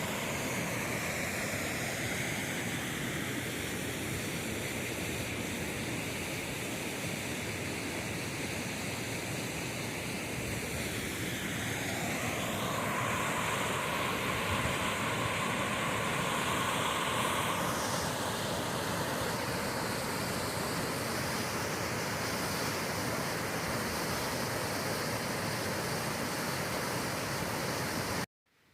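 Steady rush of water from a creek waterfall. Its tone shifts a couple of times, and it cuts off abruptly near the end.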